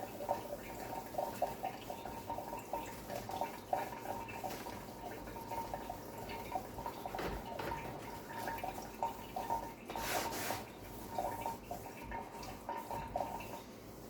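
Scrubby sponge scrubbing the inside of a microwave oven wet with degreaser spray: a steady run of quick, wet rubbing strokes, with one louder swish about ten seconds in.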